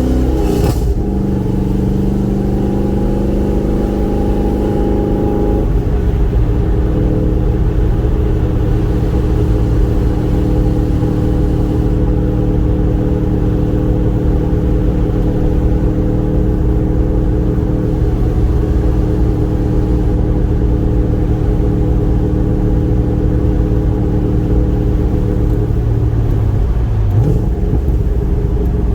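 Car engine and exhaust running while driving at a steady pace, with a low rumble throughout. The engine note steps down about six seconds in and dips briefly near the end.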